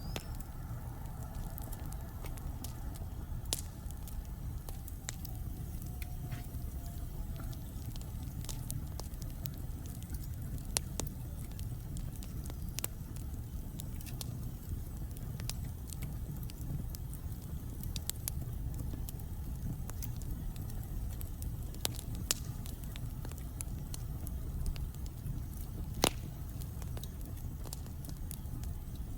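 Burning logs in a fireplace crackling: scattered sharp pops over a steady low rumble of the flames, with one louder pop near the end.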